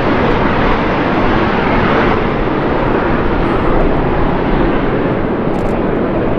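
A fixed-wing aircraft in flight, its engine noise loud and steady throughout.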